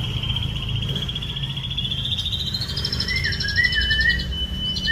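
White-rumped shama singing a long, rapid trill that steps up in pitch about three seconds in, with a few short sliding notes beneath it.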